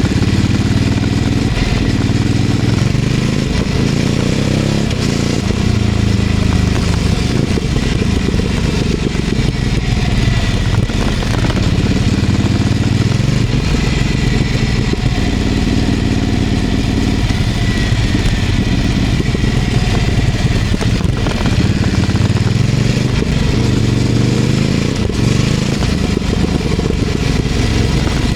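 Ducati Scrambler 800's air-cooled L-twin running through a LeoVince LV-10 aftermarket exhaust. Its pitch rises and falls several times as the bike accelerates and eases off at low street speeds.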